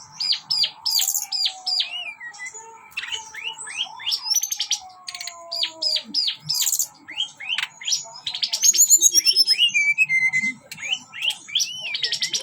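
A teledekan gunung songbird singing a fast, almost unbroken run of sharp chirps, falling whistled notes and trills, in the frantic 'konslet' style prized by bird-keepers.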